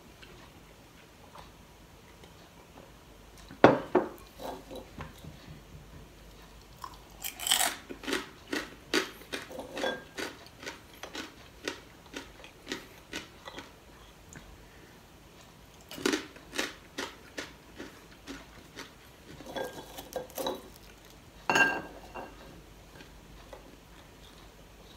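Close-up crunching of chicharon (crisp fried pork rind) being chewed, in several spells of crackly bites several times a second, mixed with light clinks of plates handled during the meal. The loudest sound is a sharp knock about three and a half seconds in.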